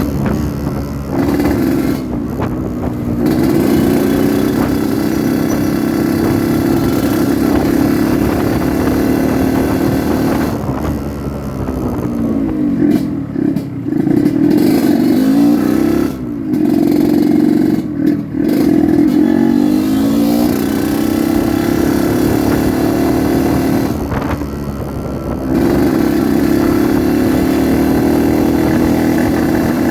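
Yamaha RX King 135cc two-stroke single-cylinder motorcycle engine running under way. Its pitch rises and falls, and its note dips briefly several times as the throttle is rolled off and back on.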